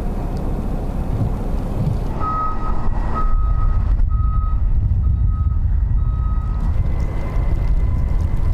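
A vehicle's reversing alarm beeping about six times, a little under a second apart, over a steady low rumble.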